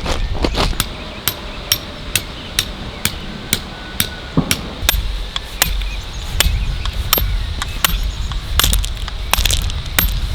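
Hammer driving metal tent pegs into the ground, about two sharp strikes a second with a light metallic ring. Steady low wind rumble on the microphone underneath.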